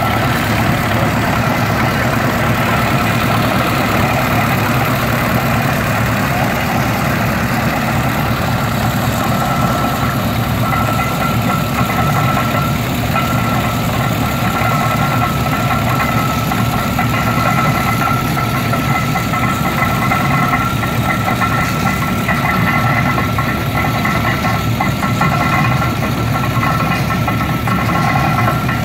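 Engine of a 1920 Samson tractor running steadily while driving a hay baler, with a steady high whine over it.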